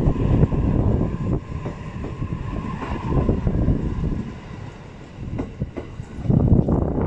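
E657 series limited express electric train running on the line, a steady rumble with wheel clickety-clack and a faint motor whine. The sound fades after about four seconds. Near the end, gusts of wind buffet the microphone.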